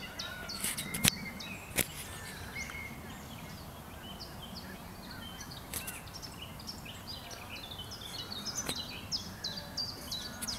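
Small birds chirping in a steady run of quick high notes, each one dropping in pitch, over a low outdoor hum. A few sharp clicks stand out, the loudest about a second in and near two seconds.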